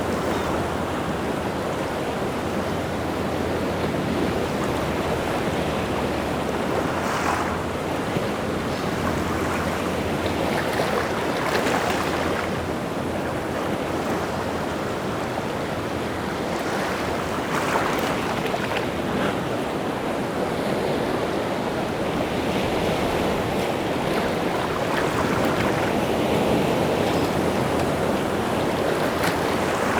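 Rough sea surf in strong wind: a steady wash of breaking waves, with louder surges several times.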